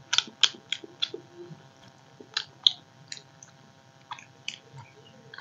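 Close-up mukbang-style eating of soft rice mashed with boiled potato: wet chewing with sharp lip-smacks and mouth clicks coming at irregular intervals.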